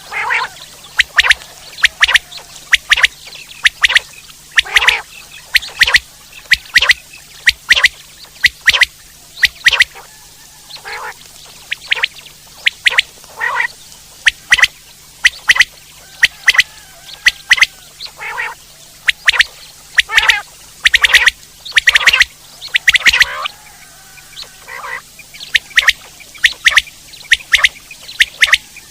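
Common quail (Coturnix coturnix) calling: short, sharp notes repeated in quick groups again and again, with a faint steady hum underneath.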